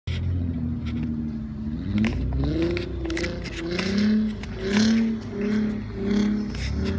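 Car engine revving while drifting on snow. Steady running at first, then from about two seconds in the revs rise and fall in quick repeated blips, roughly one and a half a second.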